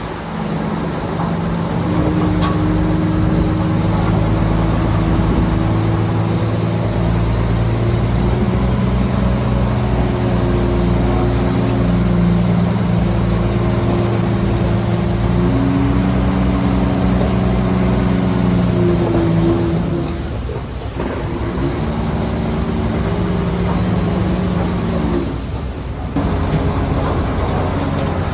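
Heavy diesel engine of earthmoving machinery running hard under load. Its pitch steps up and down a few times, and it eases off briefly twice: about two thirds of the way through and again near the end.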